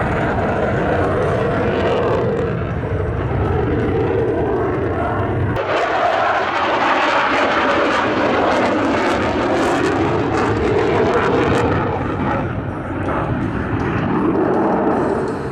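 F-16 Fighting Falcon's single turbofan jet engine roaring as the fighter flies its display, a continuous broad roar that shifts in character partway through as the jet passes, with the deep rumble thinning and the hiss brightening.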